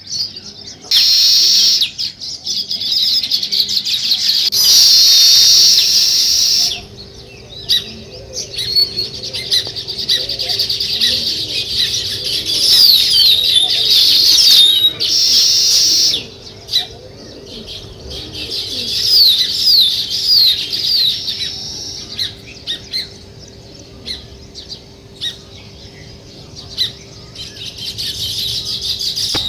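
A group of small birds chirping and twittering: many quick, high, downward-sliding notes overlapping one another. It is loudest in a few close bursts, about a second in, around five seconds in and around fifteen seconds in.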